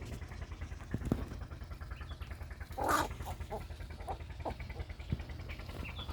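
A single short animal call about three seconds in, with a few faint calls after it, over a steady low hum.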